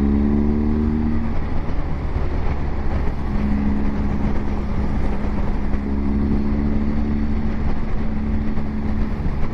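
Motorcycle riding at road speed, heard from the rider's seat: a steady rush of wind and road noise over a low engine drone. The engine note rises in pitch through the first second, then settles into a steady hum from about three seconds in.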